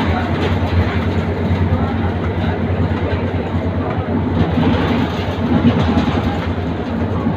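Steady low drone of a moving bus heard from inside the cabin: engine and road noise while it drives along.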